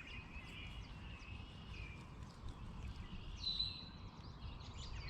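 Faint birdsong: several short, high whistled phrases, one a little louder about three and a half seconds in, over a low, even background rumble.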